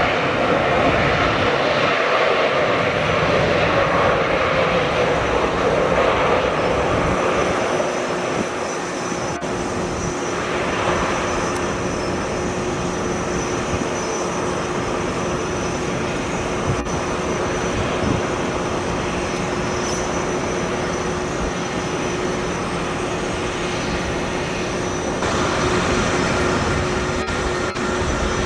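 Boeing 787-9 Dreamliner's jet engines on landing. A loud falling whine over the first several seconds, then a steadier, slightly quieter engine noise with a constant hum.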